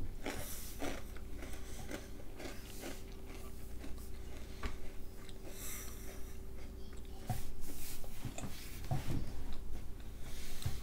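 A boy chewing a snack with his mouth close to the microphone: irregular small crunches and mouth sounds, a little louder in the last few seconds.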